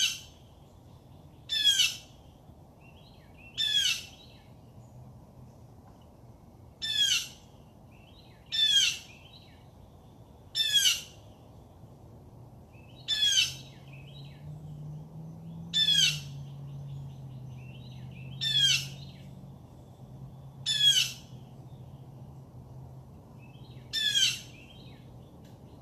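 A bird calling loudly and repeatedly, a short, harsh note that slides downward in pitch, given about every two seconds, twelve times in all.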